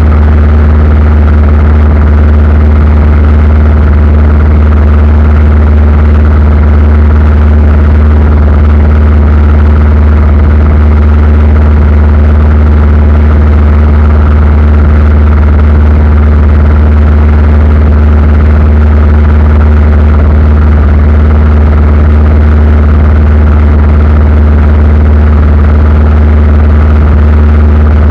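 Aircraft engines running with a loud, steady low drone that does not change.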